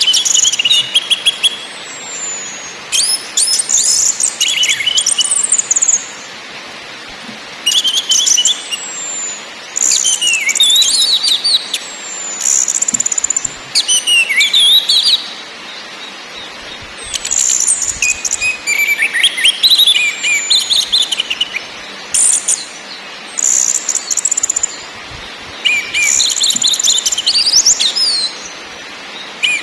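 Orange-headed thrush singing a run of about ten quick, varied, high twittering phrases with short pauses between them.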